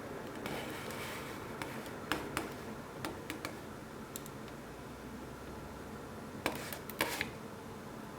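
Scattered light clicks and taps of kitchenware being handled, in two small clusters, with a brief soft rustling hiss near the start.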